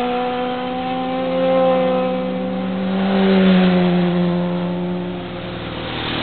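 Honda CBR1000RR's inline-four engine running loud at a fairly steady speed, swelling louder twice.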